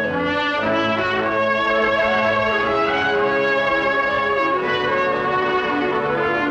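Orchestral cartoon score with brass leading: trumpets and trombones play sustained phrases over the orchestra.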